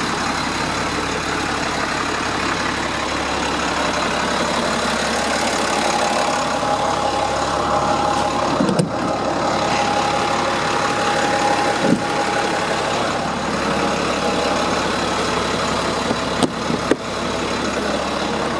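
International DT466 7.6-litre inline-six diesel idling steadily in a 2003 International 4300 box truck. A steady whine joins about six seconds in, and a few short clicks or knocks are heard.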